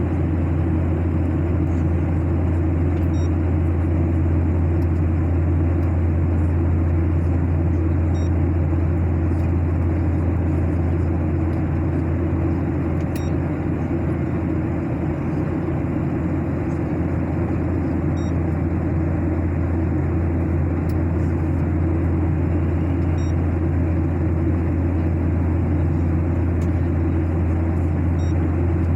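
Steady airliner cabin noise in flight: a constant deep drone and rushing. Faint short high beeps come about every five seconds.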